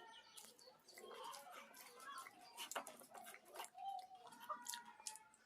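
Faint close-up eating sounds: wet mouth clicks and chewing of watered rice and fried vegetables, with a few short chirp-like squeaks about a second in and near four seconds.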